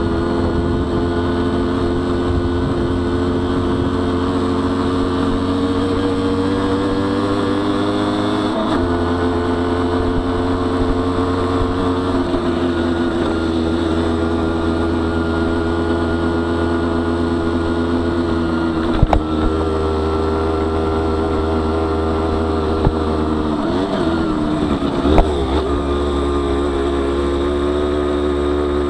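Honda CRM50 two-stroke single-cylinder engine, bored out to 63 cc, running steadily as the bike is ridden. Its pitch dips sharply a few times, about a third of the way in and twice in the later part. A couple of short knocks come through, the second near the end.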